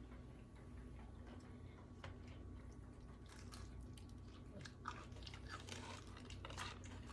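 A person chewing and biting into food close to the microphone: faint, irregular crunchy clicks, more frequent in the second half.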